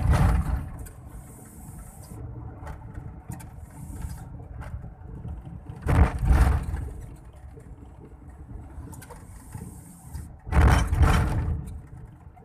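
Mitsubishi Fuso turbo truck engine running on the road, with three loud hissing bursts of about a second each: near the start, in the middle and near the end. These are the turbo hissing at the gear changes.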